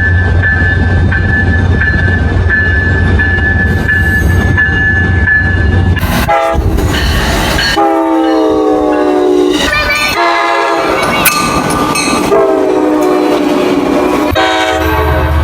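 A passing train rumbles, then a locomotive horn sounds two long blasts, about eight seconds in and again about twelve seconds in.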